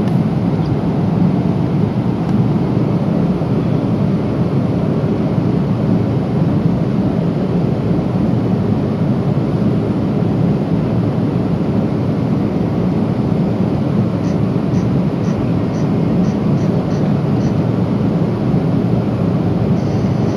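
Steady cabin roar of a Boeing 777-300 at cruise, engine and airflow noise heard from inside the passenger cabin during turbulence. A short run of faint ticks about two-thirds in.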